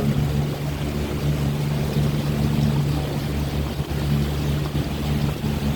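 Motorboat engine running at a steady speed, a constant low hum, with the rush of water and wind.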